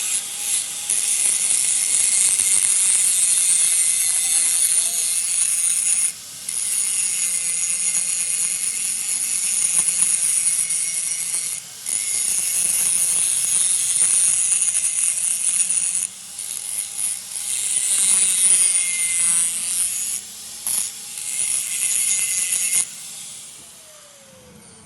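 Power tool working metal: a continuous high-pitched cutting or grinding noise, with short breaks a few times as the tool is lifted off, fading out near the end.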